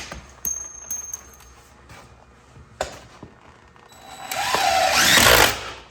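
A loud sneeze near the end. It builds up over about a second, then bursts and cuts off.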